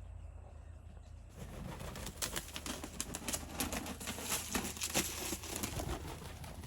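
Peafowl flying up to roost: a dense, crackling rustle of wings flapping and feathers and branches brushing starts about a second in and continues.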